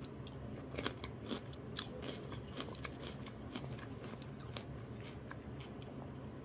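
Close-up crunching and chewing of a raw green chili pepper, a quick run of crisp crunches loudest in the first two seconds that thins out by about four seconds in.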